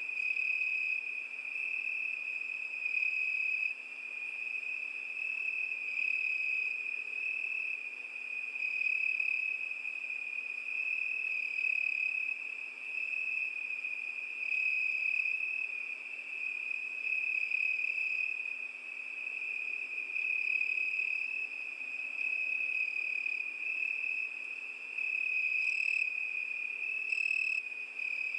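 Crickets chirping in a continuous high trill that swells and fades every two to three seconds, with two brief higher chirps near the end.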